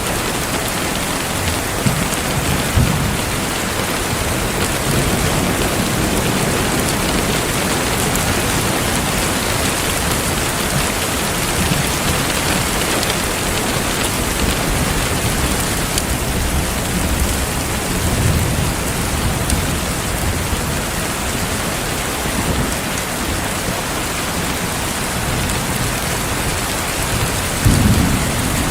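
Heavy rain falling steadily, with low rolls of thunder now and then and a louder rumble near the end.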